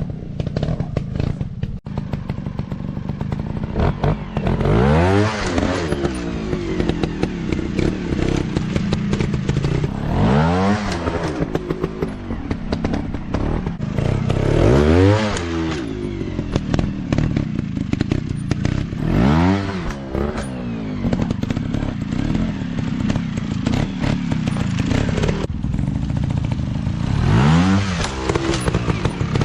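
Dirt bike engine running with five rev-ups that rise and fall back, spaced a few seconds apart, over a steady low engine note, with clattering knocks throughout.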